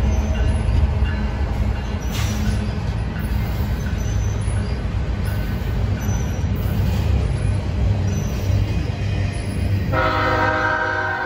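Freight train rolling past, its double-stack well cars and boxcars making a steady low rumble on the rails. About ten seconds in, a locomotive air horn starts sounding, a chord of several steady tones.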